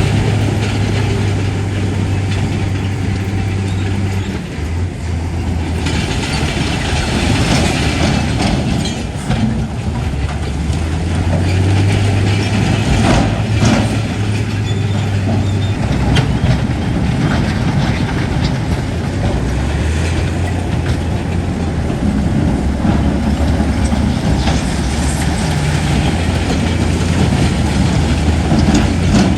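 Heavy diesel earthmoving machinery working: a steady low engine drone that swells and eases every few seconds, with irregular clanking and knocking like steel crawler tracks and blades on spoil.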